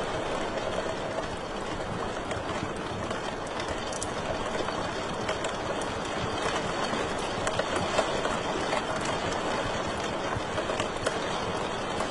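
Wood fire in a fireplace crackling steadily: a constant hiss and rumble of burning, dotted with many small snaps and pops, a few of them louder.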